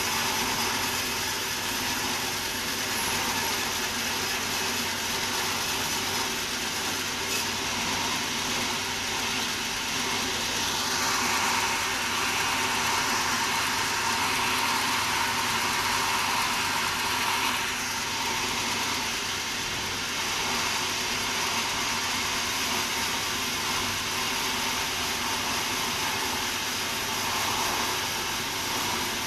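Sawmill machinery running steadily with a constant hum, growing louder and harsher for several seconds about a third of the way in, then settling back.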